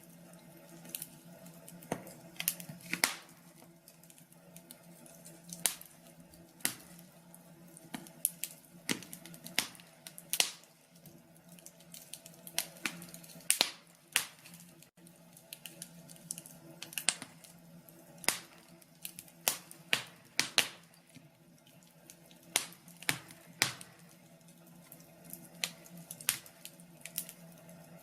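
Wood fire crackling in a fireplace: irregular sharp pops and snaps, several a second at times and then sparser, over a faint low steady hum.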